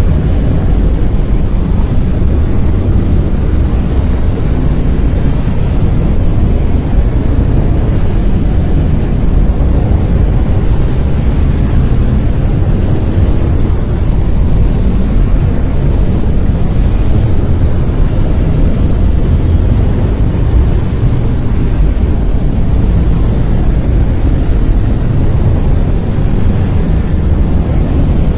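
Brown noise: a loud, steady, deep rumbling hiss with most of its energy in the low frequencies, unchanging throughout.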